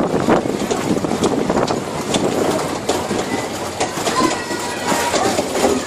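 Tractor-drawn barrel-ride carriages rattling and clattering along, with frequent short knocks.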